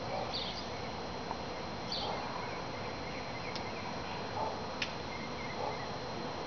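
Honey bee swarm buzzing steadily, with a few short high chirps and a sharp click a little before the end.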